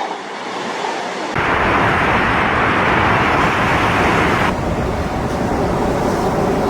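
Loud, dense rushing storm noise of wind and water, with abrupt changes about a second and a half in and again near four and a half seconds, where the footage is cut between clips.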